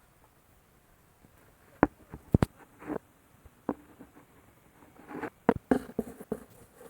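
A few sharp knocks and clicks, irregularly spaced, then a busier cluster of knocks with brief rustling near the end.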